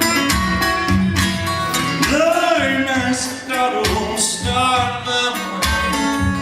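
Acoustic guitar played live in a fingerpicked country-blues style, with a steady pulsing bass under plucked treble notes. About two seconds in, a wordless voice holds a wavering note for about a second and a half.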